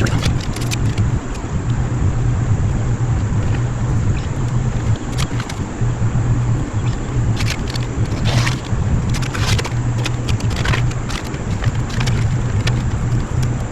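A motor running steadily: an even low hum under a noisy wash, with scattered sharp clicks and knocks.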